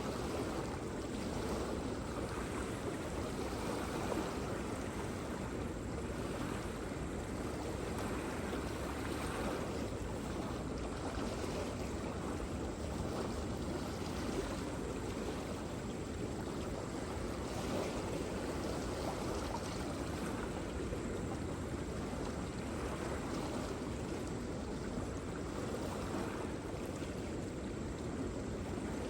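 Waterfall: water falling and rushing steadily, an even, unbroken noise with most of its weight in the low-middle range.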